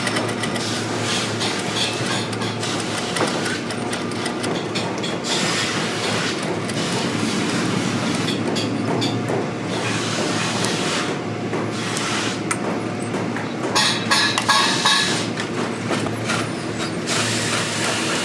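Boot-repair shop machinery running, a steady motor hum with fast, continuous mechanical clicking and rattling that gets busier about fourteen seconds in.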